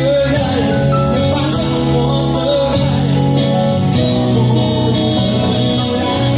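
Live band music with singing and guitar, recorded from the audience.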